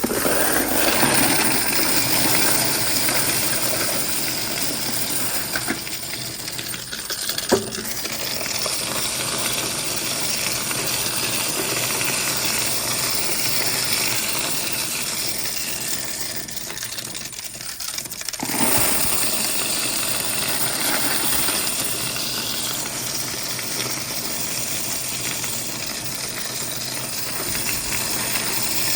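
Quarters clattering and rattling as they are fed through a coin-counting machine: a dense, continuous jangle of coins with a steady high whine, one sharp click about a quarter of the way in and a short lull a little past halfway.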